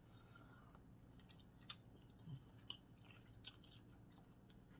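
Faint chewing while eating, with a few soft, short clicks and smacks of the mouth scattered through.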